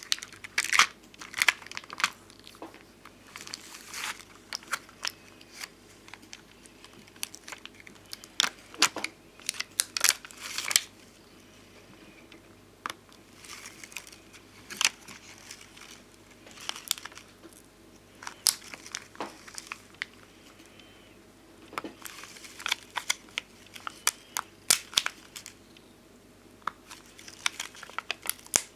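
Bonbon drop and ohajiki sticker sheets being handled close up: crinkling of the sheets and stickers peeling, with irregular sharp clicks and taps in clusters and short quieter pauses between them.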